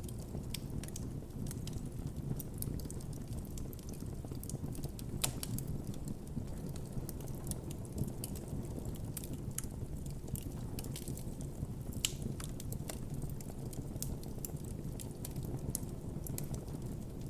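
Wood campfire burning steadily with a low rumble of flames and frequent small crackles and pops, a few sharper snaps standing out, around five and twelve seconds in.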